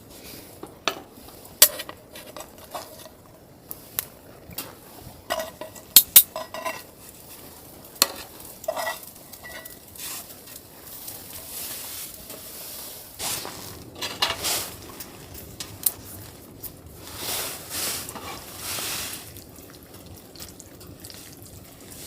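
Metal utensils clinking and scraping against cookware: a run of sharp separate clinks, then a few longer scraping or stirring strokes in the second half.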